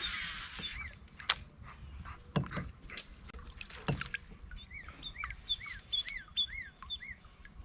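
A bird calling a quick series of about half a dozen short rising-and-falling chirps, a little over two a second, from about four and a half seconds in to about seven seconds in. Earlier there are a few sharp clicks and knocks over a low outdoor background.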